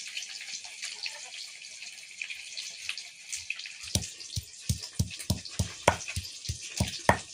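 Pieces of rohu fish sizzling as they fry in oil. From about four seconds in, a fast run of dull knocks, about three a second, plays over the sizzling.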